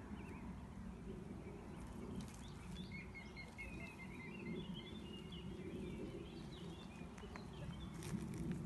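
Small birds chirping in short repeated notes, mostly in the middle stretch, over a steady low outdoor rumble, with a few soft clicks near the end.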